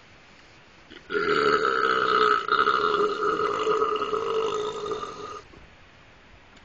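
A long, loud burp after swigging malt liquor. It starts about a second in and is held for about four seconds.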